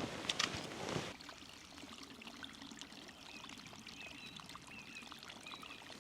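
Faint, steady trickling water, with a few knocks and rustles in the first second.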